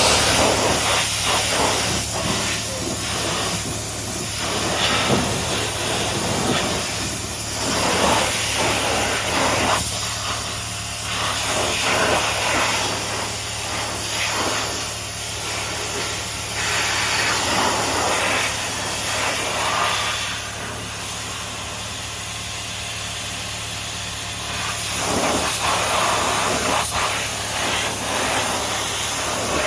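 Liquid cleaner hissing out of a sprayer in uneven bursts of a few seconds each, over the steady idle hum of a 2007 BMW 335i's twin-turbo straight-six.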